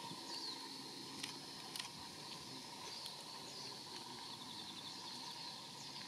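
Short, high, downslurred chirps of small songbirds, heard about five times, over a steady background of insects, with a couple of sharp clicks about a second in.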